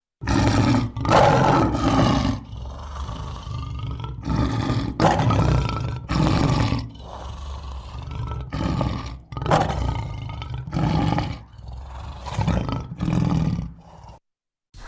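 Lion roaring: a long series of loud calls one after another, stopping shortly before the end.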